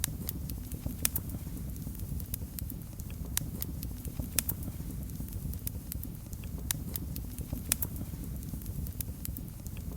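Fire crackling in a fireplace: irregular sharp pops and snaps over a steady low rush from the flames.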